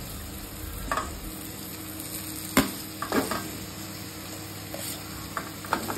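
Pre-cooked chicken sizzling in a pan of butter-fried onion and masala, stirred with a spatula that knocks against the pan a few times.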